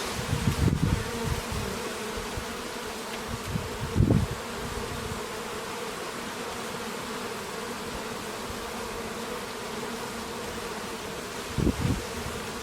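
A steady, even buzz, with a few brief low thuds about half a second in and about four seconds in.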